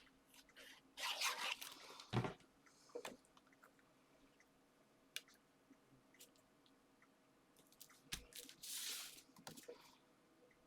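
Paper and card being handled: short rustles and crinkles about a second in and again near nine seconds, with a soft knock on the table about two seconds in and another about eight seconds in.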